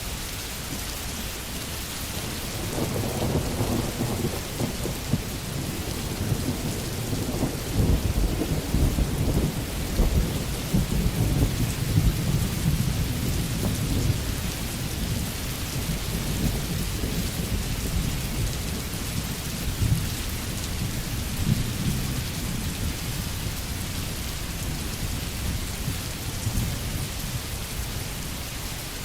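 Steady rain falling on a tin roof, with a long rolling rumble of thunder that builds a few seconds in, is loudest around the middle and fades away.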